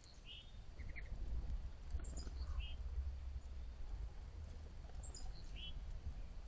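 Wild birds chirping outdoors: short high chirps, a few notes at a time, about once a second, over a low steady rumble.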